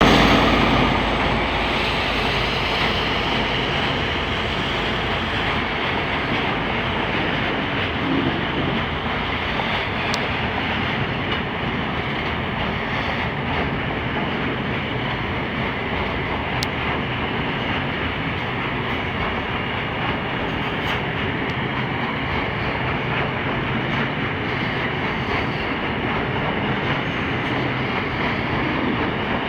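Loaded freight train leaving a station, its wagons rolling by with a steady rumble of wheels on rail, loudest right at the start.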